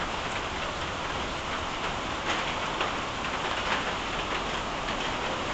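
Steady rain falling, a dense even hiss with scattered sharper drop splashes.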